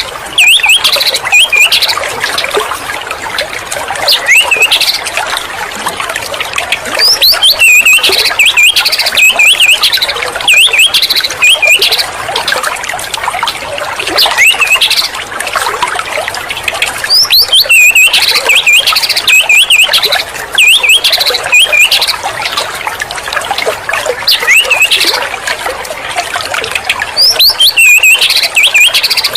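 White-rumped shama (murai batu) singing loudly and continuously, with rapid, varied whistled phrases and trills that recur every few seconds. It is a bait song (pancingan), played to a caged shama to provoke it into singing.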